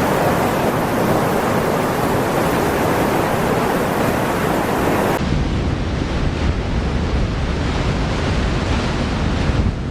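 Typhoon wind and water giving a steady, loud rushing noise, with wind buffeting the microphone. About five seconds in, the sound changes abruptly to a deeper, duller rumble.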